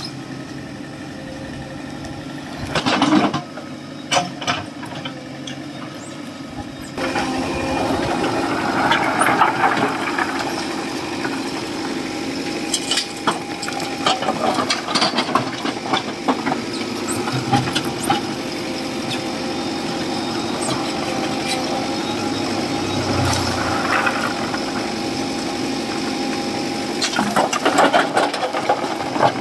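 JCB 3DX backhoe loader's diesel engine running while loading, louder from about seven seconds in, with scattered clanks and rattles.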